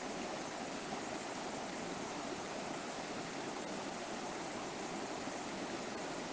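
Steady rushing of a flowing river stream, water running over rocks.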